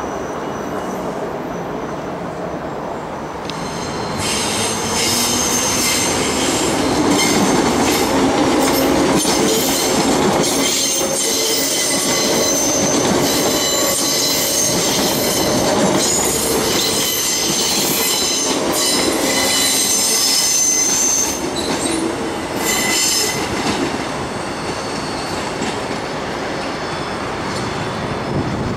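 Transperth A-series electric multiple unit train running over the tracks, a steady rumble throughout. From about four seconds in until about twenty-one seconds its wheels squeal with thin, high-pitched tones.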